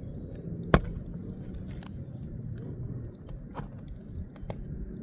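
Metal hand tool clicking and scraping under an asphalt shingle as a roofing nail is worked loose and pulled, with one sharp clink about a second in, over a steady low rumble.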